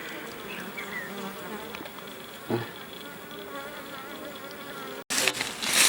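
Honeybees buzzing in large numbers around an opened woven hive, many wavering hums overlapping. A short thump about two and a half seconds in, and a louder burst of noise near the end after a brief dropout.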